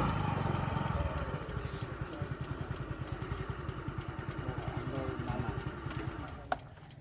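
Motorcycle engine running with a fast, even putter that slowly fades away. A single sharp click comes near the end.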